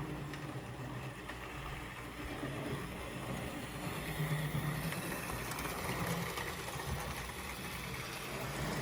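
Model steam locomotive running along its track: the small electric motor hums steadily with wheel-on-rail noise, getting a little louder about four seconds in.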